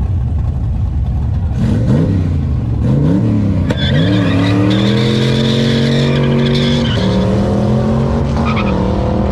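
A car engine revved in three quick blips, then held at high revs for about three seconds before dropping a little and holding steady, over the rumble of other idling engines.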